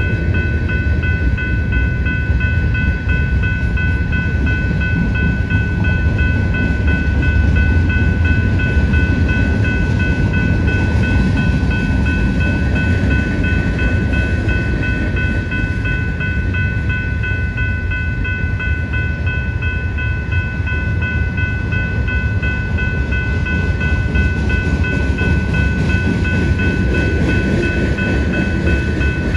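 Freight cars of a long mixed BNSF freight train rolling past: a steady, even rumble of wheels on rail, with a steady high ringing tone over it.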